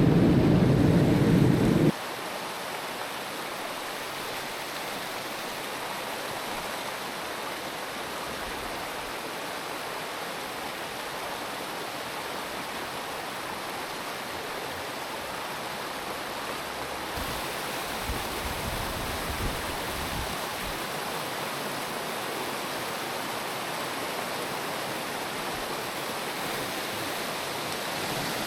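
Mountain stream water rushing over rocks, a steady even wash. For the first two seconds a loud low rumble sits over it and cuts off suddenly.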